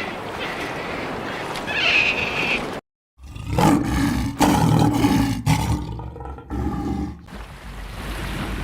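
A large animal roaring, in several calls of about a second each that follow a short cut to silence.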